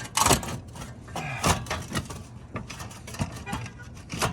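Rooftop dryer vent's slide-out piece being wiggled and worked loose: irregular scraping and knocking. It sticks because the vent is clogged with lint.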